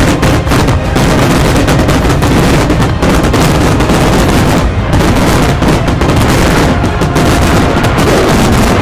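Fireworks going off in a rapid, unbroken barrage of bangs, too close together to count, loud throughout.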